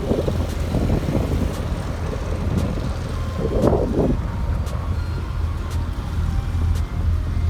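Passenger ferry's engine running with a steady low drone while under way, with wind noise on the microphone swelling briefly about three and a half seconds in.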